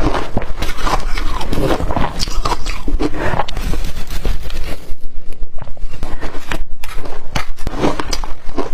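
Close-up crunching and chewing of blender-crushed ice in the mouth: dense crunching for about the first half, then fewer, separate sharp crunches.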